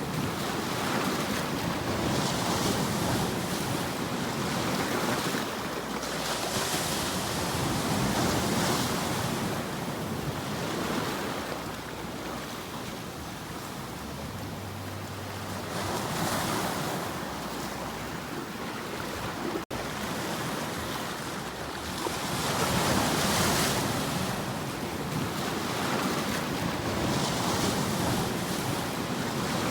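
Ocean surf: waves washing in and drawing back in slow swells every few seconds, with a momentary dropout in the sound about two-thirds of the way through.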